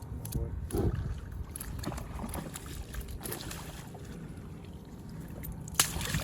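Kayak on the water: scattered light knocks and water noise around the hull over a steady low rumble, with one sharper knock about six seconds in.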